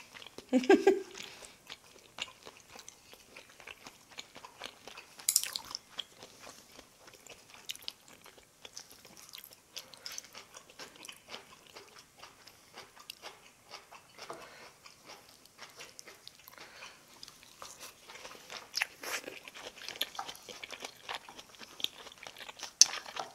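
Close-up chewing and crunching of a mouthful of food, picked up by a clip-on microphone, as a series of small wet clicks and crackles with an occasional sharper click.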